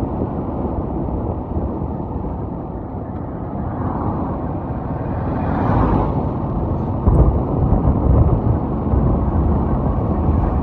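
Steady road and vehicle noise with a low wind rumble on the microphone, typical of riding a motorcycle. It swells about halfway through, and the low buffeting grows louder from about seven seconds in.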